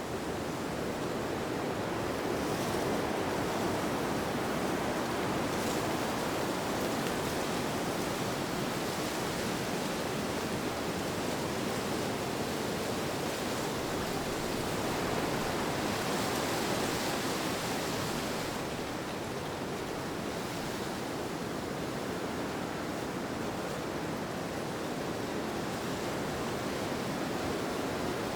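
Steady rushing wind with no break, swelling gently and growing brighter and hissier for a couple of seconds about two-thirds of the way through.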